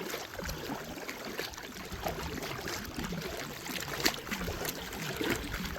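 Paddle strokes in the water, with water trickling and splashing off the blade and small knocks, one sharper about four seconds in.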